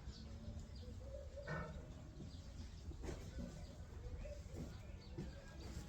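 Birds chirping now and then in the background, over a steady low hum.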